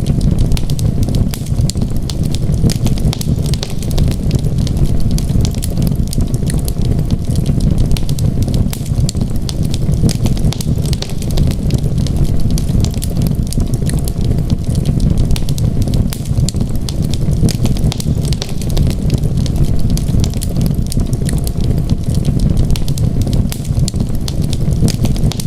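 Wood fire crackling, with frequent small pops and snaps over a steady low rumble.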